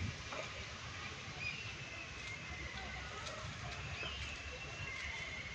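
Several thin, high whistled animal calls, each under a second, some falling slightly in pitch, over a steady low outdoor rumble.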